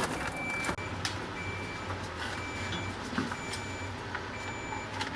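Samsung French door refrigerator's control panel beeping, a short high beep about once a second, five times. It is the repeated beep of the unit held in forced defrost mode ("FD", defrost on both sections).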